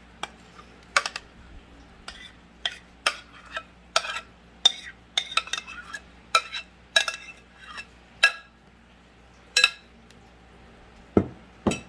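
Spoon clinking and scraping against soup cans and a mixing bowl as cream of celery soup is emptied in: a string of sharp, ringing clinks at an uneven pace, with two duller knocks near the end.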